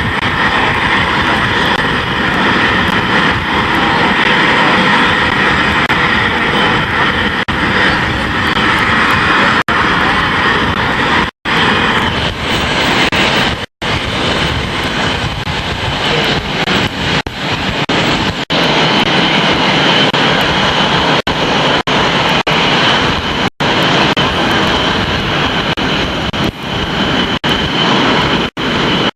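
Loud, steady jet engine noise from military jets flying an airshow display. It is broken by a few sudden, brief dropouts where the tape audio cuts out.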